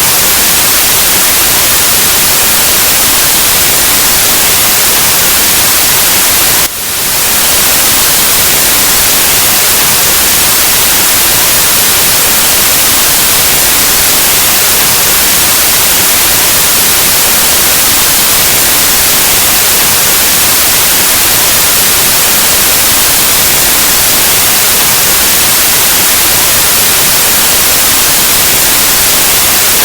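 Steady, loud white noise: an even static hiss across the whole frequency range. About seven seconds in, the level briefly dips and swells back within half a second.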